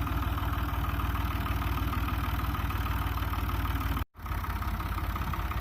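Tractor engine idling steadily with a fast, even low firing beat. The sound cuts out for an instant about four seconds in and then carries on.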